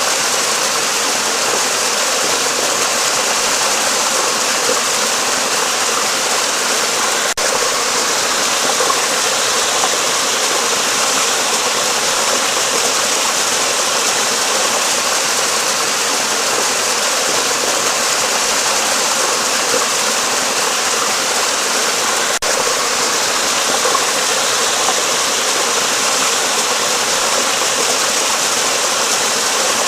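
Steady rushing flowing water, an even unbroken hiss, with two tiny clicks about 7 and 22 seconds in.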